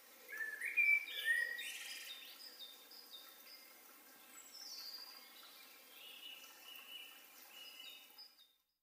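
Birds singing and chirping in short whistled notes, loudest about a second in, then scattered quieter calls over a faint steady outdoor hiss, fading out near the end.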